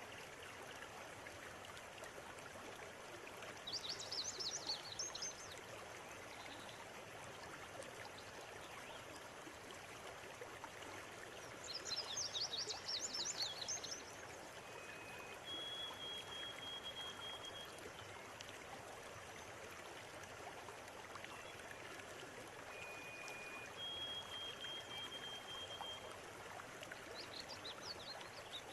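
River water flowing in a steady rush, with birds calling over it: three bursts of rapid, high chirping trills and a few thin, long whistled notes.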